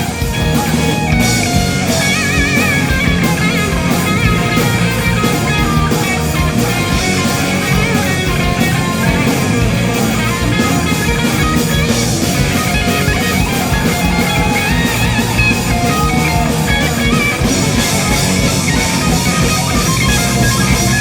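Live rock band playing: an electric guitar leading over drum kit and bass, steady and loud with no break.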